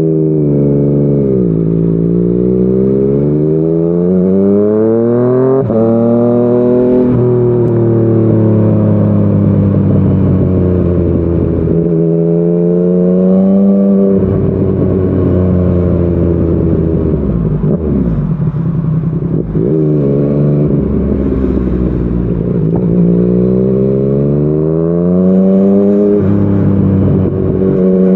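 Yamaha MT-09's inline three-cylinder engine through a Yoshimura R55 slip-on exhaust, heard while riding. The note climbs as it accelerates and drops sharply at each gear change, then falls away as the rider eases off and rises again, several times over.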